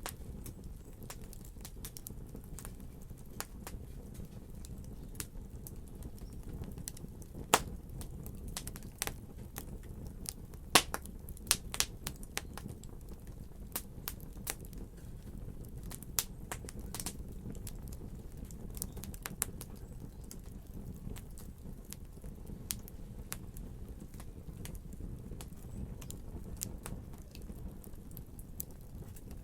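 Wood fire burning in a fireplace: a steady low rumble of the flames with irregular crackles and sharp pops, the loudest pops coming in a cluster in the first half.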